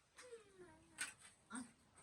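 A domestic animal's short, faint whine that falls in pitch, followed by two light clicks.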